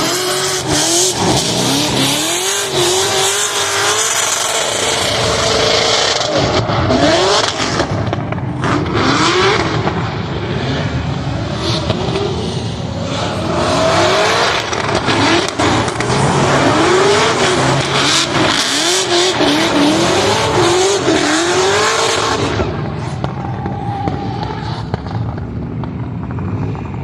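Car engine revving hard again and again, its pitch climbing and dropping many times in quick succession, over a loud rushing noise of tyres.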